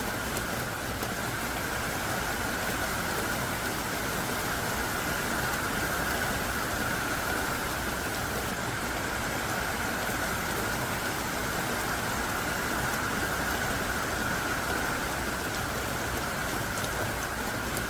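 Heavy, pouring rain falling steadily, a dense, even hiss with no separate drops standing out.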